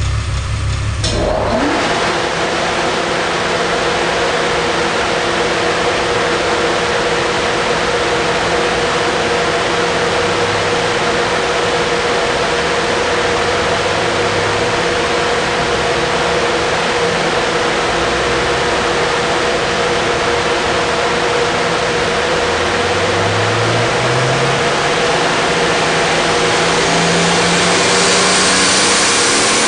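Turbocharged VW Golf III VR6 engine running under load on a chassis dynamometer, with a loud steady rush of noise from the rolling wheels and rollers. The noise comes on suddenly about a second in, and the engine note climbs slowly over the last several seconds as the revs rise.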